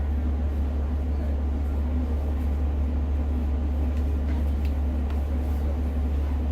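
Cabin noise of a Class 150 diesel multiple unit on the move: a steady low drone from the underfloor diesel and running gear, with an even rumble of wheels on rail and a few faint ticks.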